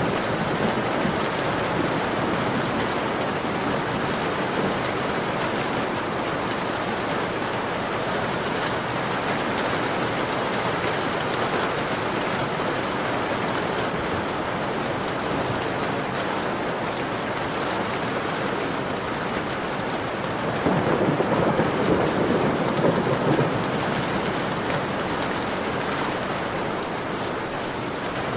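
Steady rain falling against a window, with a low roll of thunder swelling for a few seconds about twenty seconds in.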